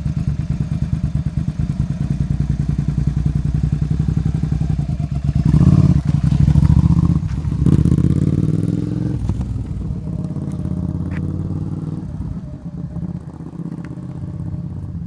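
Motorcycle engine running, revving up and getting louder about six to eight seconds in, then fading to a lower, quieter run.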